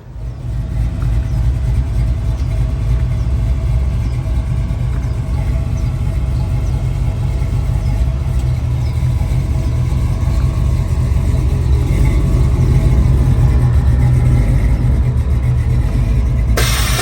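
Vehicle engine running steadily with a deep rumble. A burst of hiss comes near the end.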